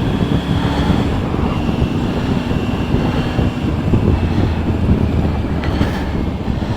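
Motorcycle engine running steadily under load while climbing a hill at road speed, with wind and road noise over the rider's camera.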